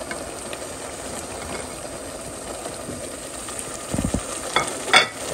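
Chicken in its masala paste sizzling steadily in a pot as dry spices are poured in. A few knocks near the end.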